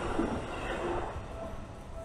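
A passing train, its rumble fading away as it recedes.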